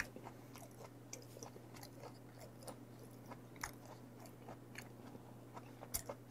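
Close-miked chewing of a mouthful of chewy raw beef shank: soft wet mouth sounds and small clicks, with a sharper click about six seconds in, over a steady low hum.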